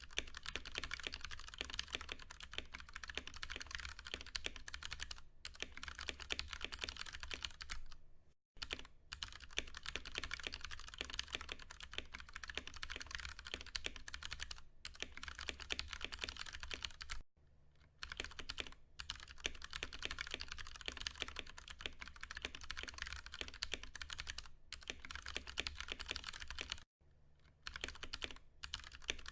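Continuous fast typing on a Ducky One 2 Mini mechanical keyboard with tactile Cherry MX Brown switches: a dense stream of key clacks, broken by three short pauses. A steady low hum sits underneath.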